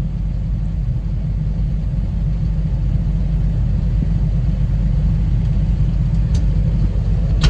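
Combine harvester running with a steady low rumble, with a sharp click at the very end.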